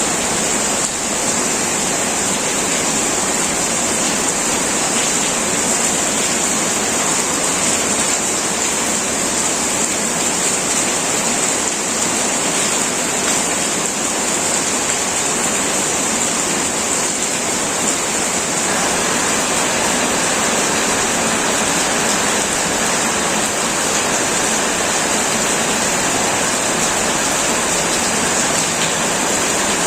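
Heavy rain drumming steadily on a metal roof, a dense even hiss with a bright high edge.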